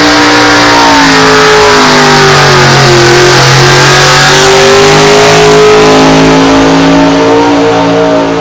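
Pulling truck's engine at full throttle, very loud, dragging the weight sled. The engine note sags for a couple of seconds as it bogs under the load, then climbs again and holds high.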